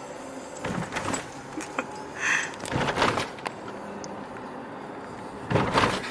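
Car cabin noise while driving, with several knocks and rattles about a second in, between two and three seconds in, and near the end, as the car goes over speed bumps.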